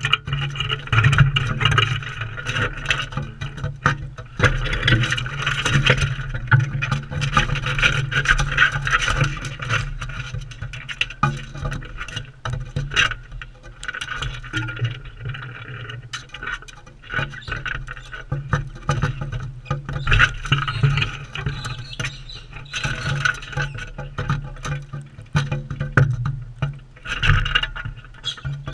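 Crimson rosellas feeding right at the camera: a dense run of clicks and scrapes from beaks and feet working seed on the feeder, over a low rumble.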